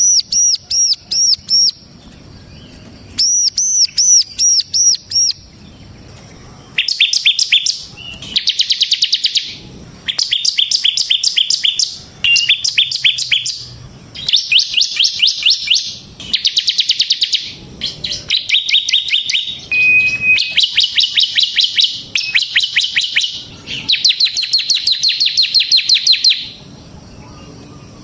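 Bar-winged prinia (ciblek) singing in full voice: first two runs of repeated high, clear notes, then from about seven seconds in a long series of fast, drilling trills ('ngebren'), each about a second long with short pauses between, stopping a little before the end.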